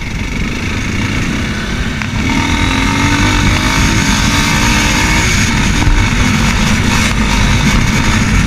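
Racer Panther 300 enduro motorcycle engine running while riding. It gets louder about two seconds in, and its pitch creeps up slowly as the bike picks up speed.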